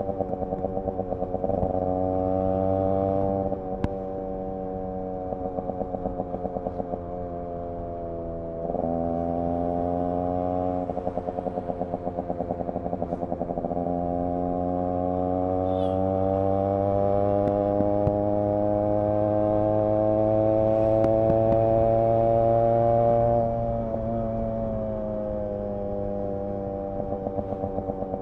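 Yamaha RX 100's single-cylinder two-stroke engine and exhaust on the move, the revs climbing and dropping sharply at gear changes. A long pull builds from about halfway, then the throttle closes near the end and the revs fall away in an uneven pulsing.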